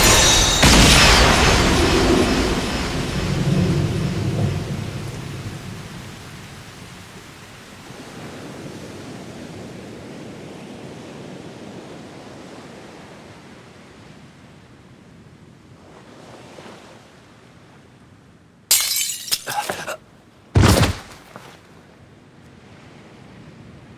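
Action sound effects: a loud crash with a rumble that fades over several seconds, then a low steady hiss, and two sharp, loud impacts about two seconds apart near the end.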